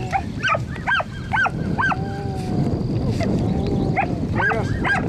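Bird dog puppies yipping in a rapid string of short, high yelps, about two a second, mixed with a few longer whines, over a steady low rustling.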